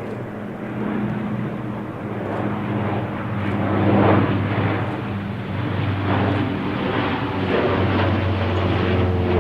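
Propeller aircraft engines droning steadily, with rushing air noise that swells louder several times.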